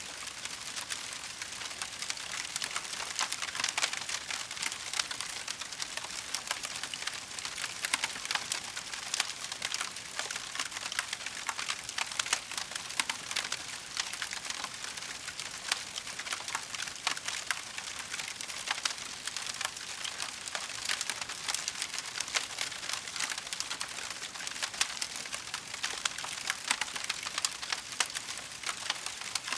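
Wood fire crackling: a steady hiss of burning with dense small crackles and an occasional louder pop.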